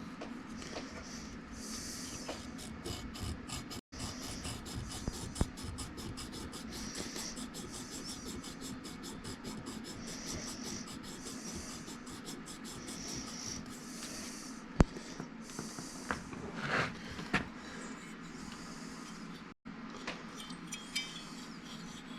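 Repeated hand-scrubbing strokes, abrasive rubbing inside a chainsaw cylinder bore to clean out scoring, over a steady low hum, with scattered small clicks and one sharp click about two-thirds of the way through.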